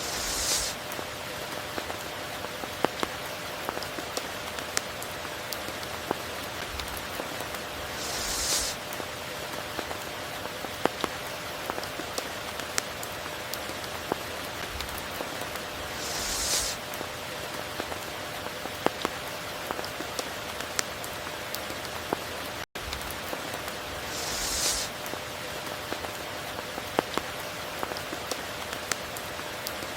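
Steady tropical rain falling, with scattered sharp drips and a short hissing swell that comes back about every eight seconds. The sound cuts out for an instant about two-thirds of the way through.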